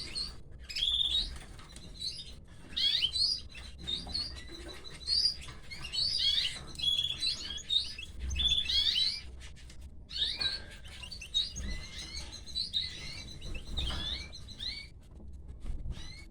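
Canaries chirping: a rapid run of short, high chirps and quick pitch glides that dies away near the end.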